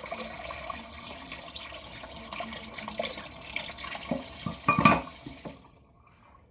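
Kitchen tap running as something is rinsed under it, with a short loud clatter near the end. The water shuts off about five and a half seconds in.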